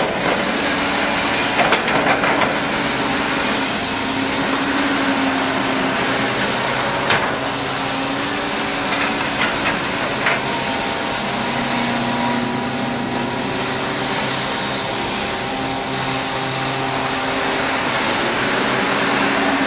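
Heavy diesel earthmoving machinery running steadily under load, its engine note rising and falling a little, with a few sharp knocks about two and seven seconds in.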